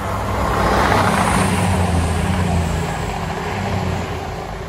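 East Midlands Railway Intercity diesel passenger train passing through the station: a low diesel engine hum under the rush of wheels on rail. It swells to its loudest about a second in and dies away near the end as the train recedes.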